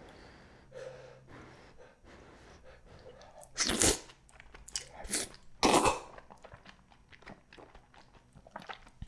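Close-up eating sounds of spicy cheese braised chicken: soft chewing and mouth noises, broken by two loud, short sharp bursts of noise near the middle, with a smaller one between them.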